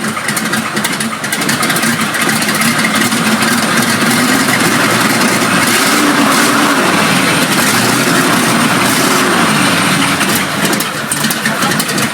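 1924 Fiat Mephistopheles' 21.7-liter Fiat A.12 inline-six aircraft engine running loud and steady.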